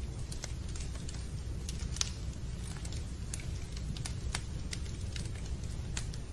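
Wood fire in a fireplace crackling: irregular sharp pops over a steady low rumble, with one louder pop about two seconds in.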